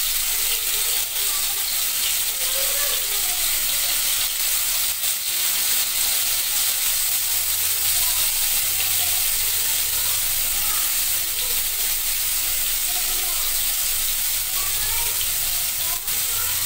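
Paneer cubes rubbed with salt and turmeric sizzling as they shallow-fry in hot oil in a pan: a steady frying hiss, with a few light clicks as more cubes are dropped in.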